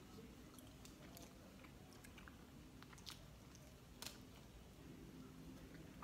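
Faint chewing and biting on a cheeseburger, with scattered soft mouth clicks.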